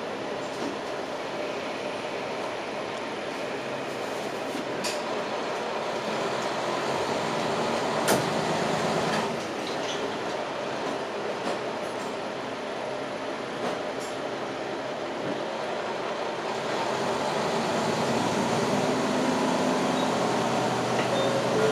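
JR Hokkaido KiHa 40 diesel railcar running along the track: a steady rumble with a few sharp clicks from the wheels. The engine note grows louder toward the end.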